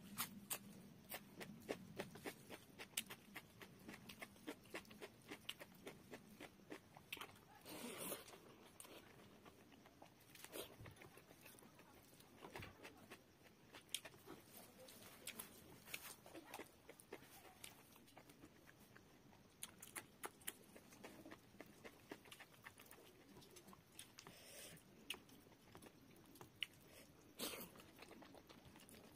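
Close-miked chewing of rice and fish curry eaten by hand: a steady scatter of soft, wet mouth clicks and lip smacks, with a few louder chewing bursts, one a few seconds before the end.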